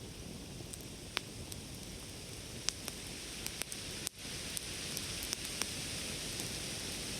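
Wood campfire crackling: a steady hiss with scattered sharp pops and snaps, about half a dozen of them, the loudest a little over a second in and near the middle.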